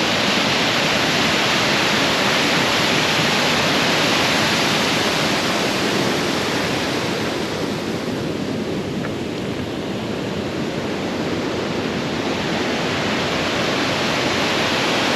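Sol Duc Falls, a waterfall, making a steady rush of falling water: a loud, even hiss without pauses.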